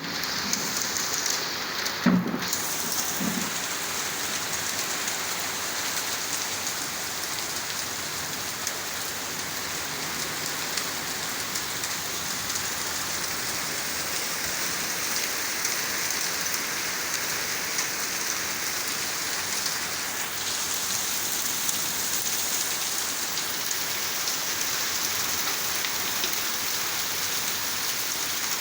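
Heavy rain and hail falling steadily, a dense hiss of drops and hailstones striking surfaces. A loud knock comes about two seconds in and a softer one a second later.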